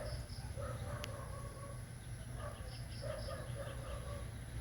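Background bird calls: a quick high three-note chirp that repeats about every two and a half seconds, with other scattered calls, over a steady low hum.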